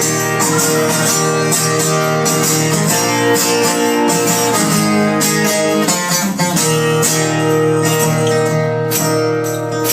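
Acoustic guitar strummed in a steady rhythm, playing the instrumental opening of a song with no voice yet.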